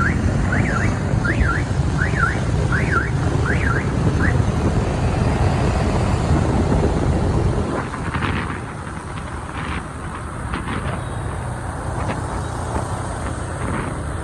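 City street traffic heard from a moving motorbike, with a heavy low rumble of engines and wind that drops off about eight seconds in. For the first four seconds an electronic alarm warbles up and down, about three sweeps every two seconds, then stops.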